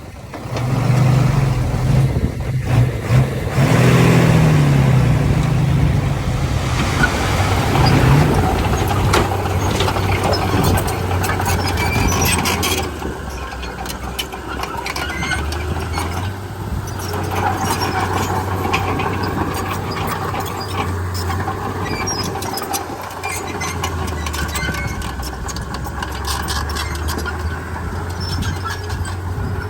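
Komatsu D31P bulldozer's diesel engine revving up over the first few seconds, then running steadily under load, with squeaks and clanks from its steel tracks.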